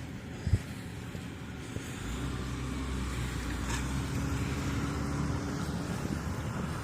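A motor vehicle's engine running, a low steady hum that comes in about two seconds in and eases off near the end, after a single short thump.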